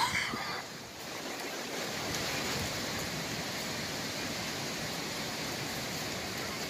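Thunderstorm rain and wind, a steady even rush.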